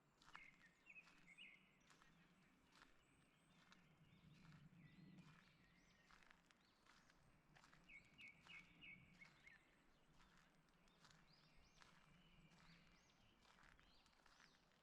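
Faint footsteps walking along a forest path, about one step every three quarters of a second, with small birds chirping quick runs of short high notes, clearest about half a second in and again about eight seconds in.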